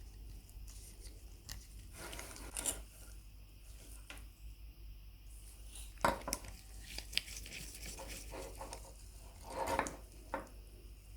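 Small metal parts being handled on a workbench: scattered light clinks and short scrapes, with a few sharper knocks about six seconds in and a brief scrape near the end.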